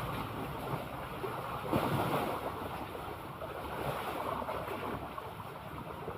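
Sea waves washing and splashing, with wind buffeting the microphone; a louder surge of water about two seconds in.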